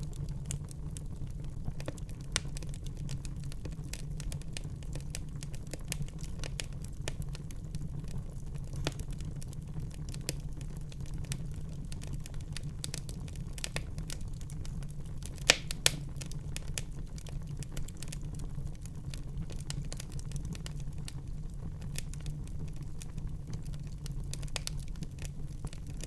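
Wood fire burning in a fireplace: a steady low rumble of the flames with frequent small crackles and pops, two sharper pops a little past the middle.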